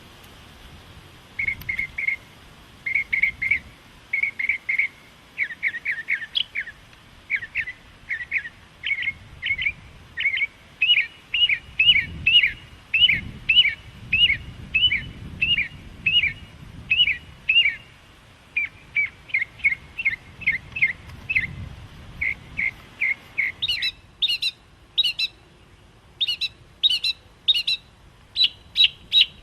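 Small songbirds chirping: strings of short, quick notes, several a second, with brief pauses between phrases. Near the end the calls turn higher and sharper, coming in spaced clusters.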